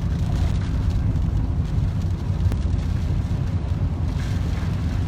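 A car driving in typhoon winds: a steady low rumble of road and wind noise.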